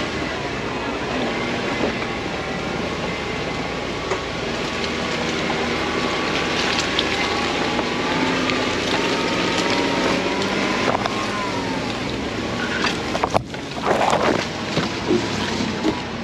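Off-road Jeep engine running steadily, with wind noise on the microphone and a short cluster of knocks near the end.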